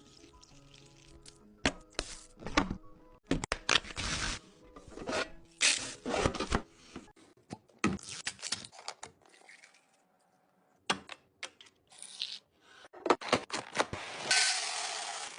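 Kitchen containers and packaging being handled and set down during restocking: a run of sharp clicks and knocks mixed with rustling, a brief lull about ten seconds in, then a steady rushing noise near the end. Faint background music under the first few seconds.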